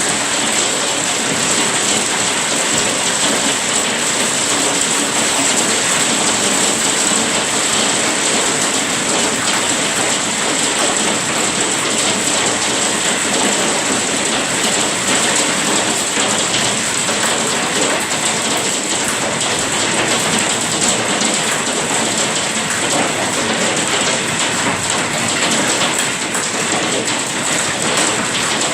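Heavy storm rain falling, a loud, steady, dense hiss with no breaks.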